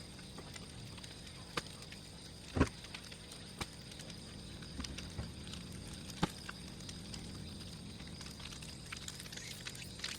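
Large wood bonfire crackling: a steady low rush with scattered small ticks and a few sharp pops, the loudest about two and a half seconds in.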